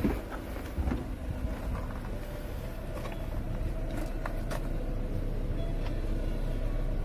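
Engine of a 2012 Chevrolet Spark idling steadily, a low rumble with a steady hum over it. A sharp thump comes right at the start, and a few light clicks come about four seconds in.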